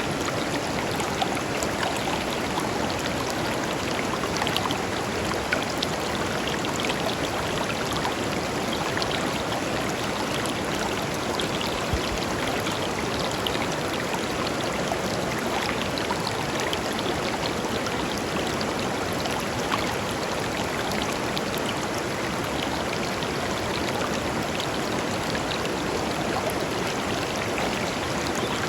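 A clear river flowing steadily over stones: a continuous rush of water, with small splashes and trickles flickering through it.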